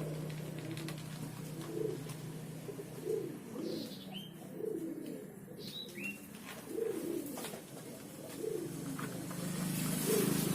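A dove cooing over and over, a low call repeated every second or so, with a few short high chirps from a smaller bird and a steady low hum underneath.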